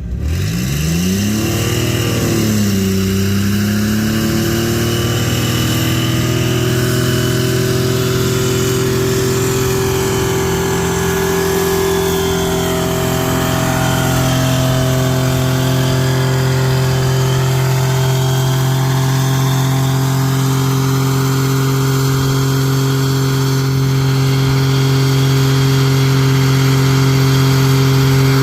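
Car engine held at high revs during a burnout. The revs dip and climb back in the first few seconds, then hold steady and loud, with a noisy hiss beneath.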